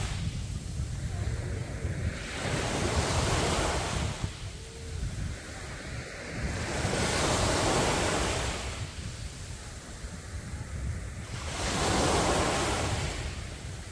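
Sea waves breaking on the beach, surging in and washing back out about every four to five seconds, with wind rumbling on the microphone.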